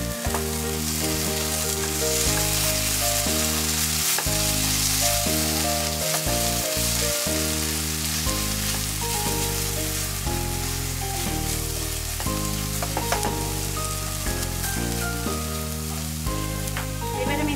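Onion-tomato and spice masala sizzling in oil in a nonstick kadai as it is stirred and scraped with a spatula while being fried down. Background music of held notes changing every second or so plays underneath.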